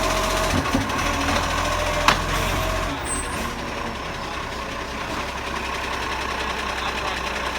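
Recycling garbage truck's engine running, with one sharp clack about two seconds in; the low engine rumble eases off about three seconds in.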